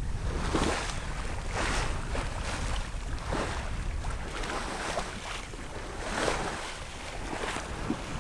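Water rushing and splashing along the hull of a sailboat under sail, coming in surges about a second apart, with wind rumbling on the microphone. The motor is off.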